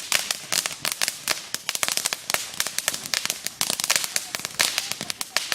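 Firecrackers going off in a rapid, irregular string of sharp cracks, many a second, without a break.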